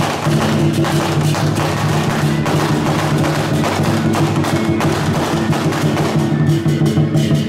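Procession music: dense, rapid percussion strikes of drums and wooden or metal clappers over a steady, held low pitched tone.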